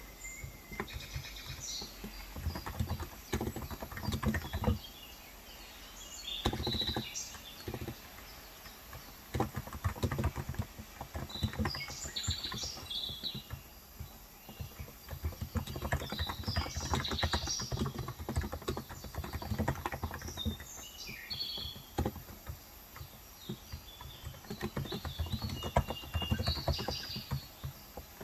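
Typing in bursts of rapid key clicks on a Cox Endeavor tenkeyless keyboard with 35 g electrostatic capacitive switches, with short pauses between bursts. Birds chirp in the background.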